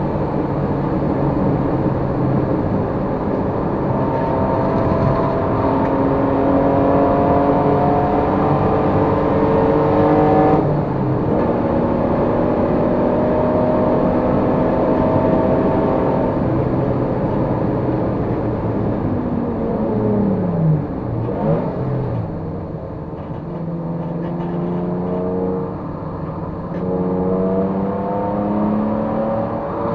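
Race car engine under hard load, its pitch climbing in long pulls with a sharp drop at a gear change about a third of the way in. Around two-thirds of the way through the revs fall away quickly with two short blips as it brakes and shifts down, then it pulls up through the revs again.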